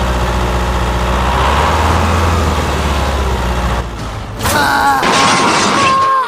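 Tractor engine running with a steady low rumble. About four seconds in it gives way to a loud, wavering, high pitched sound that lasts almost to the end.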